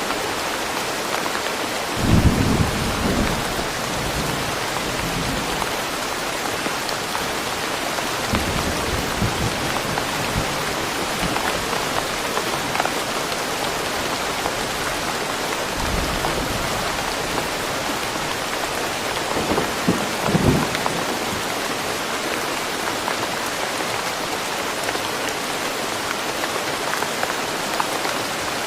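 Steady rain falling in woodland, a constant hiss, with low rumbles of thunder about two seconds in, again around eight to ten seconds, and a stronger one around twenty seconds.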